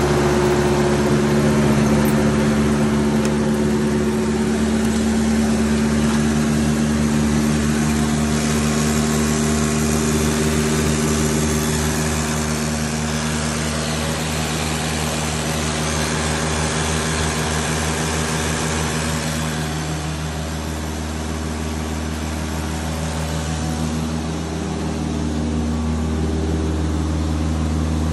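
A 1980 Shay Model A Roadster's Ford 140-cubic-inch four-cylinder engine idling steadily, its tone shifting a little in the last several seconds.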